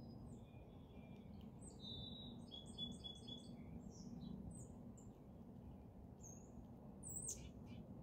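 Faint wild songbirds chirping: a quick run of about half a dozen high notes a couple of seconds in, and a sharp falling call near the end, over a low steady background hush.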